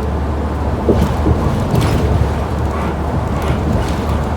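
Transit bus cabin at speed: a steady low drone of engine and road noise, with short rattles or knocks about one, two and three and a half seconds in.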